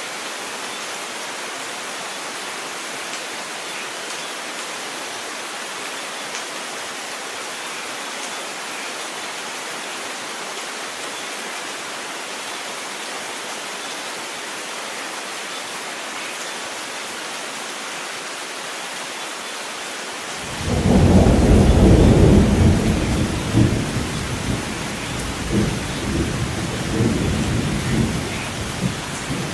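Steady rain hiss, with a loud low rumble of thunder breaking in about two-thirds of the way through and rolling on in uneven swells.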